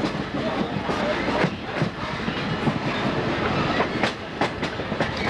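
Passenger train rolling along the track, heard from on board: a steady rumble and rattle with irregular clicks and knocks of the wheels over the rail joints.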